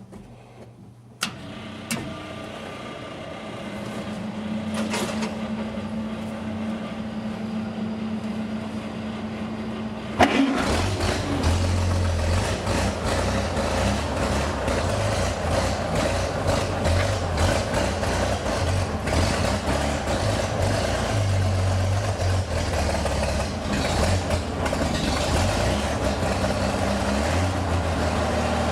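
Old Chevy truck started cold: a few knocks, a steady whir for about eight seconds, then the engine catches about ten seconds in and runs at a low, uneven idle. The owner calls the truck a little cold-blooded.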